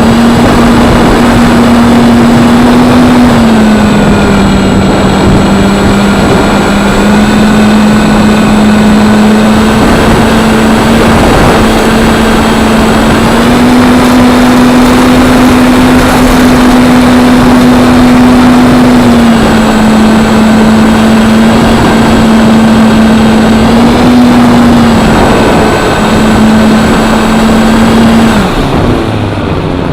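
Electric motor and propeller of a Parkzone P-47 RC plane in flight, giving a steady whine that steps up and down in pitch with throttle changes. It is nearly drowned by loud wind rushing over the microphone. The pitch drops a few seconds in, rises again past the middle, and dips lower near the end.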